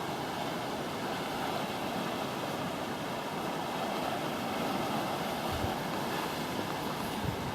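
Steady rush of ocean surf, with wind.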